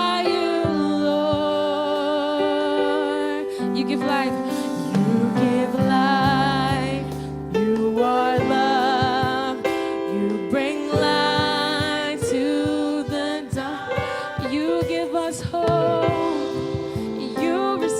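Gospel-style worship music: a singer's voice, with vibrato and sliding runs, over held keyboard chords.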